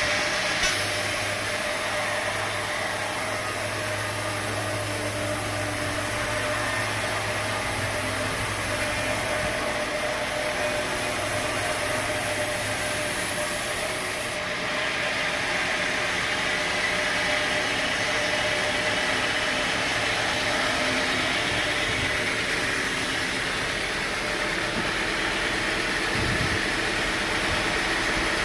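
Sawmill machinery running steadily with a constant hum, with a high hiss over it that cuts off suddenly about halfway through.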